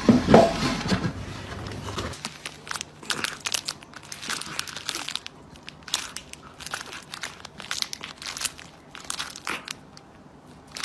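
Irregular crinkling and crumpling rustle, many short crackly strokes, after a louder sound in the first second.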